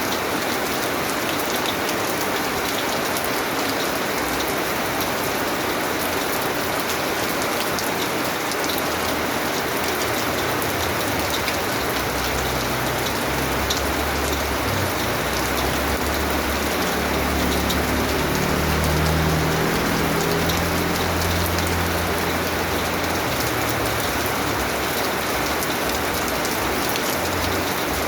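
Steady rain falling, an even dense hiss with scattered drop ticks. A low rumble swells under it about halfway through and fades a few seconds before the end.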